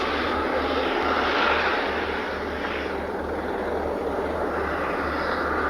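Airliner's engines running at takeoff power: a loud, steady rushing noise with no break.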